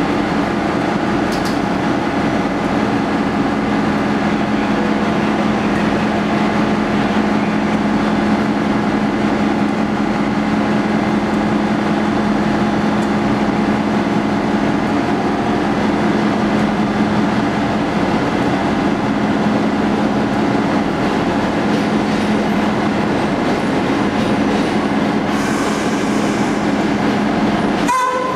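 A train at a station platform giving out a steady, loud machine hum with a low tone that holds its pitch throughout.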